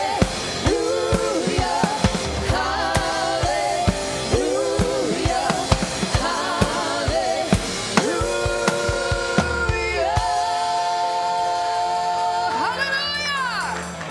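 Live church worship music: singers with vibrato over a band and a steady drum-kit beat. About ten seconds in, the drums drop out under a long held chord, and near the end a single sung note slides up and falls away.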